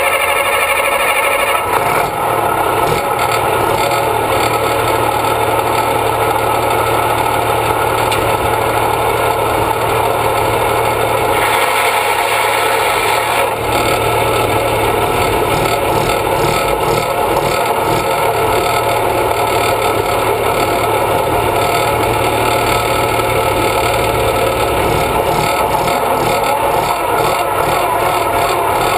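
Massey Ferguson 1130 tractor's diesel engine running loud and steady at high power, as in a tractor pull. There is a brief change in tone about halfway through.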